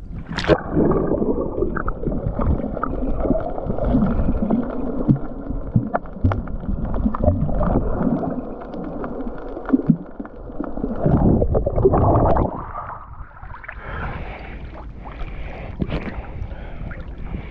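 A sharp splash about half a second in, then muffled gurgling and sloshing water, heavy and uneven, easing off about two-thirds of the way through.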